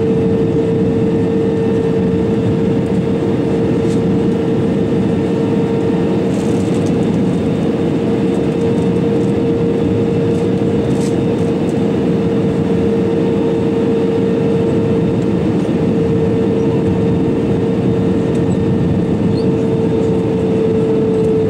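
Steady cabin noise inside an Airbus A320-200: a continuous engine and airflow rumble with a steady hum tone held throughout, and a few faint ticks.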